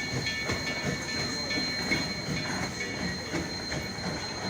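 Durango and Silverton narrow-gauge steam train rolling on the track: cars rattling and clanking in irregular knocks, over a steady high-pitched tone.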